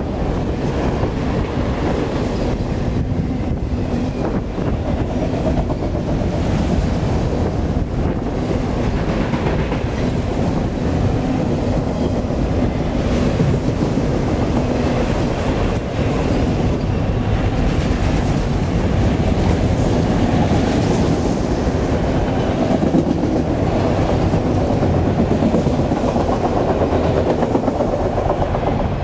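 CSX autorack freight cars rolling past close by at speed. There is a steady rumble of steel wheels on the rail, with clacking as the wheels cross the rail joints.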